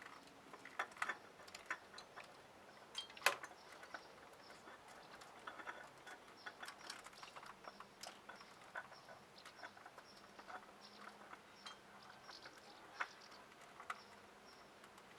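Faint, scattered clicks and light scrapes of a new spin-on oil filter being handled and worked onto its thread by feel, with one sharper click a little over three seconds in.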